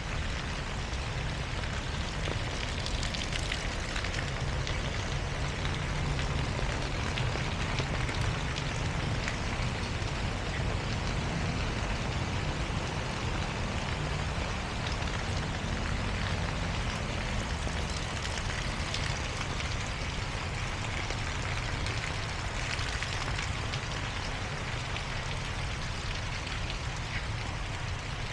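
Heavy rain falling: a steady hiss with scattered sharper drop hits, over a constant low rumble.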